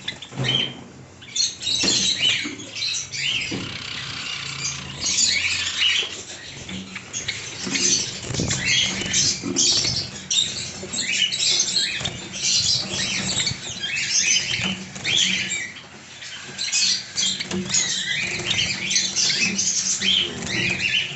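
Java sparrows chirping and squeaking, many short high calls overlapping in a dense, unbroken chatter.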